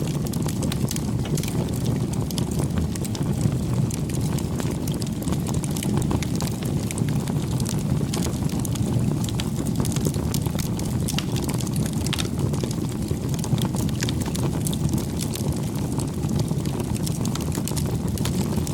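Campfire burning: a steady low rumble of flames with frequent small, irregular crackles and pops.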